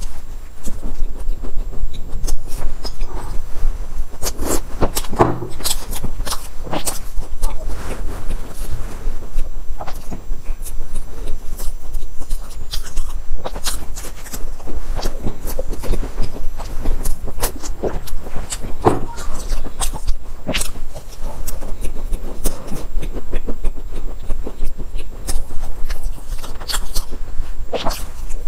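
Close-miked eating of soft Chinese pastries: biting, chewing and wet mouth clicks coming irregularly, over a steady low hum.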